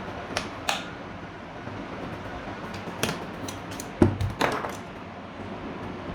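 A series of sharp clicks and knocks over a steady low hum. The loudest knock comes about four seconds in, with a few more just after it.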